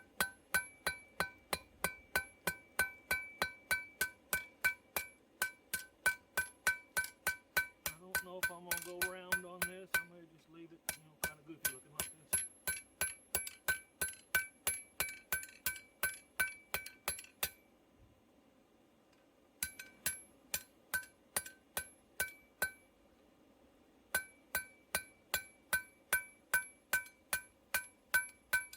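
Hand hammer striking steel on an anvil-shaped object, about two to three blows a second, each blow ringing with a clear metallic tone. The hammering stops briefly twice in the second half.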